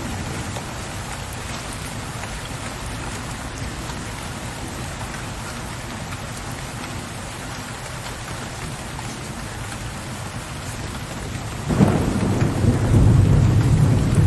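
Steady rain pattering, with a deep roll of thunder that starts suddenly near the end and grows louder.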